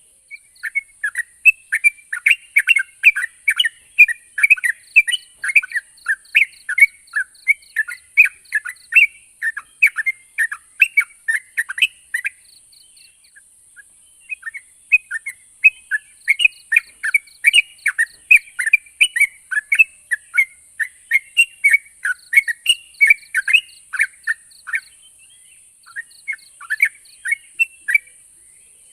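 Yellow-vented bulbul (trucukan) singing a fast run of bubbly chirped notes, breaking off for about two seconds near the middle before starting again, over a steady high-pitched hiss.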